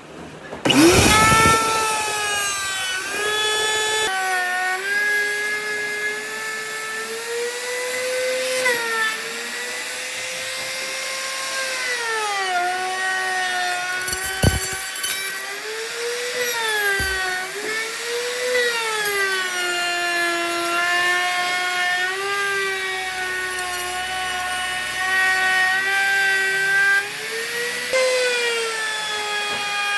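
Handheld power tool working wood, its motor tone dipping and recovering again and again as it is pressed into the work and eased off. A couple of sharp knocks come about halfway through.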